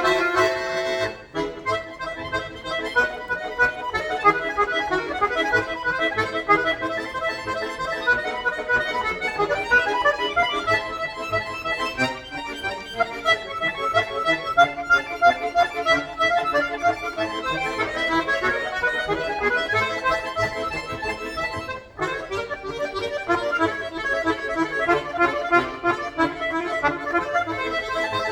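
Solo accordion playing a fast, busy piece of rapid running notes over chords. A held chord breaks off about a second in, and there is a brief pause around two-thirds of the way through.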